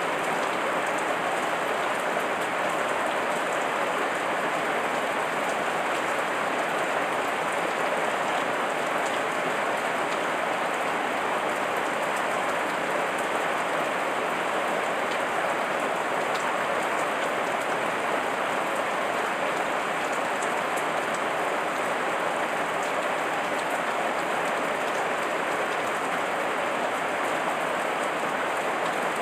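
Heavy rain falling steadily on leaves, a dense, even patter with faint individual drop ticks.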